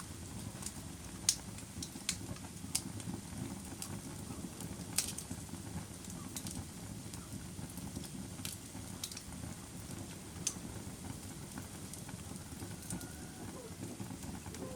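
Wood fire burning in a fireplace: the flames give a steady low rumble, with irregular sharp crackles and pops from the burning logs, a few of them louder snaps.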